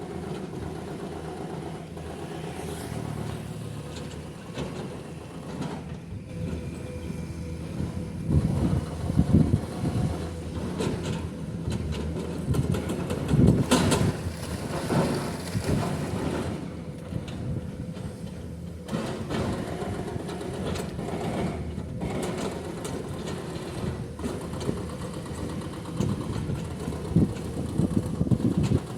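Excavator's diesel engine running steadily, with bursts of rapid hammering from its hydraulic breaker on limestone, loudest around the middle and again near the end.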